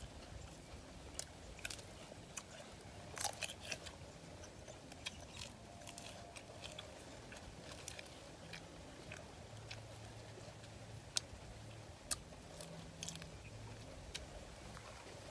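Close-up eating sounds: chewing and crunching of raw greens and cooked duck offal, a scatter of short sharp crunches and crackles. A cluster comes about three seconds in, and two sharper single cracks come later.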